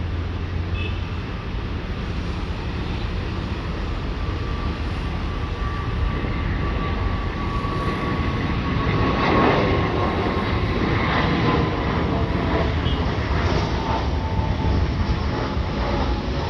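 Private jet's turbofan engines whining over a steady rumble as it comes in to land. The whine slowly falls in pitch, and the sound gets a little louder toward the middle.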